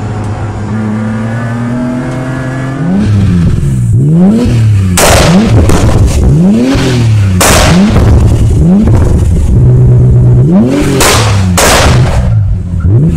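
For about the first three seconds, the in-car sound of a BMW E46 on track, its engine pulling with a slowly rising pitch. Then a stationary BMW E46 Touring with quad exhaust tips is revved in quick blips, the revs sweeping up and dropping again and again. Four loud cracking bursts of exhaust pops and bangs come as the revs fall.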